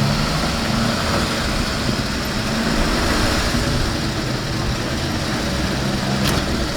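A car engine idling steadily, a low even rumble.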